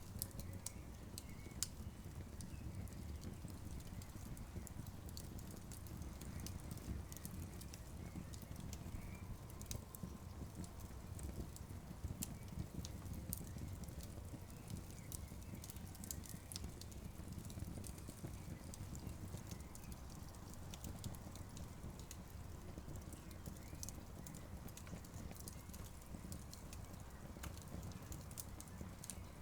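Wood campfire crackling, with frequent sharp pops and snaps scattered irregularly over a low steady rumble of the burning fire.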